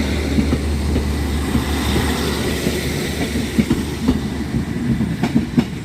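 Class 150 Sprinter diesel multiple unit pulling out of the platform, its diesel engine running with a steady low drone and the wheels clicking a few times near the end.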